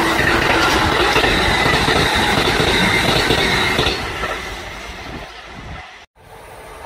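Kintetsu electric train passing close by at speed, a loud rush of wheels on rails with a faint high whine, fading away after about four seconds. The sound cuts out for an instant near the end.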